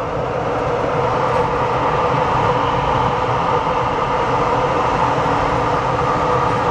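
Steady rushing airflow noise inside the cockpit of a DG1000 glider in flight, with no engine running.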